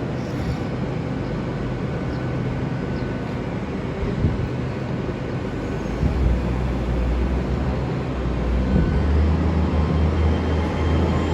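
Great Western Railway Class 802 train running on its underfloor diesel engines, a low steady hum coming in about halfway through and growing louder toward the end.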